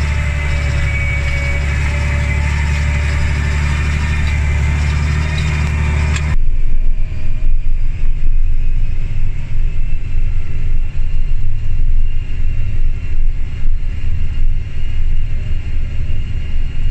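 John Deere 8530 tractor's six-cylinder diesel running steadily under ploughing load at around 1300 rpm, with a strong low hum. About six seconds in the sound changes abruptly to a louder, uneven, rising-and-falling rumble.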